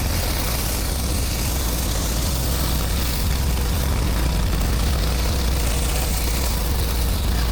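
Pressure washer's gas engine running steadily with a low hum, under a steady hiss of water spray.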